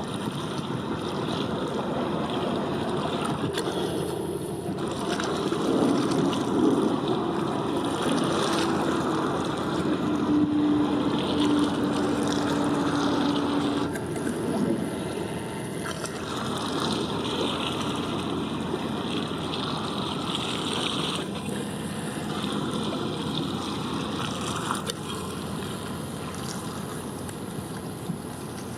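Wind rushing over the microphone above the steady running of boat engines on the water, with a single steady hum holding one pitch for a few seconds around the middle.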